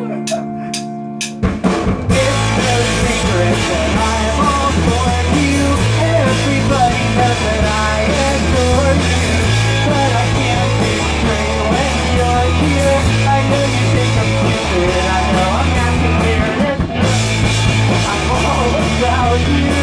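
Live rock band playing an instrumental stretch of a song: a held, bending guitar note gives way about a second and a half in to full drum kit, distorted guitar and a stepping bass line. The band drops out briefly near the end, then crashes back in.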